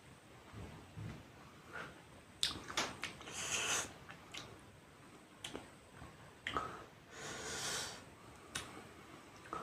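Close-miked eating sounds: wet chewing, lip smacks and sharp mouth clicks, with two long breathy hisses around four and eight seconds in. The hisses are air drawn in against the burn of spicy chilli.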